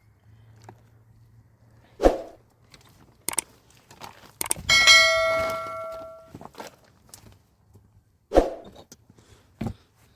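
Several sharp knocks and one loud clang of a struck metal object, which rings on with a clear tone for about a second and a half before dying away.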